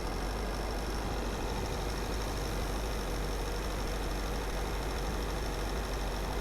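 Car driving at a steady pace: even road and tyre noise over a low engine hum, with a faint steady high-pitched whine.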